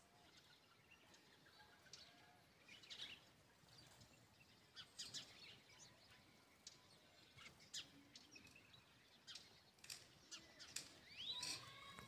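Faint, scattered chirps of small birds, with a short call that slides in pitch near the end.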